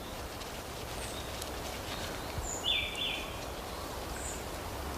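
Forest ambience: a steady low background rumble with a few brief, high-pitched animal calls scattered through it, the longest about three seconds in.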